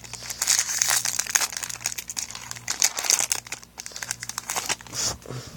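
Yu-Gi-Oh booster pack wrapper crinkling in the hands, a dense, irregular crackle as the foil pack is handled and opened.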